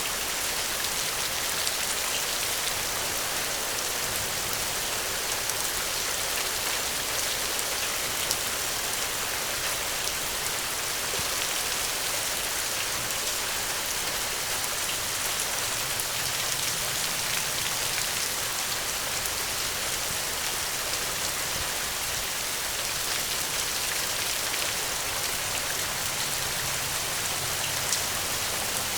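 Steady rain, an even hiss of drops with a few sharp ticks here and there.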